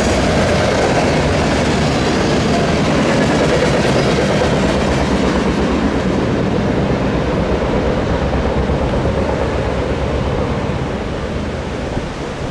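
Freight train cars rolling past on the rails, a steady wheel-on-rail noise that eases off slightly near the end.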